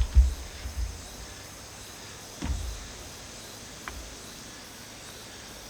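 Steady chirring of insects such as crickets in the background, with a few low dull thumps in the first second and again about two and a half seconds in.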